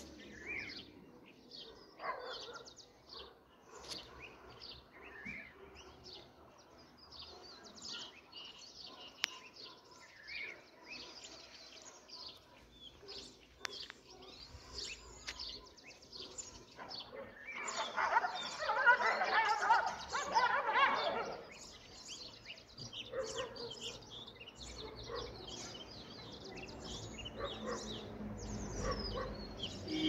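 Outdoor birdsong: many small birds chirping and calling in short notes, with a louder stretch of dense chatter lasting a few seconds about two-thirds of the way through.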